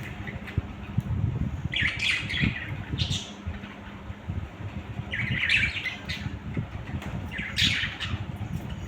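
Pet budgerigars squawking in short, harsh bursts: four calls spread a couple of seconds apart, over a low background rumble.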